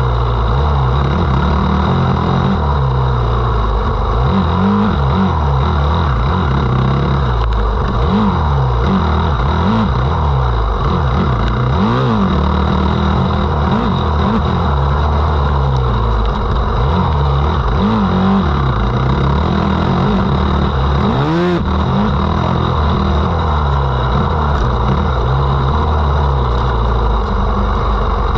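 Motocross bike engine revving hard and backing off again and again, its pitch climbing and falling every second or two, with a sharp click about twenty-one seconds in.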